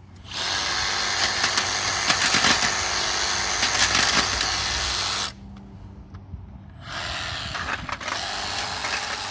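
Power tool cutting through the sheet metal of an air conditioner, with a dense, grating noise. It stops abruptly about five seconds in and starts again, quieter, a couple of seconds later.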